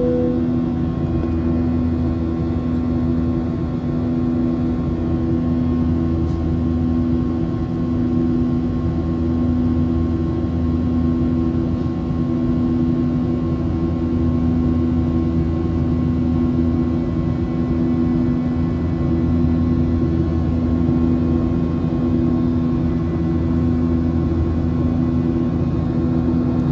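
Steady cabin drone of a Boeing 737 airliner in flight: jet engine hum and airflow, with low steady tones that swell and fade slowly in a beating throb.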